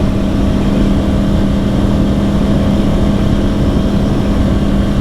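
2010 Yamaha R1's crossplane inline-four, breathing through dual Yoshimura exhausts, running at a steady cruise with its pitch holding constant, under wind and road rumble.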